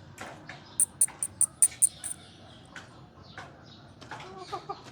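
A quick run of about eight short, sharp, high chirps from a small bird, then near the end a short, broken clucking call from a hen.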